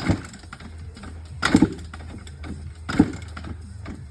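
Three heavy knocks, about a second and a half apart, over a steady low hum.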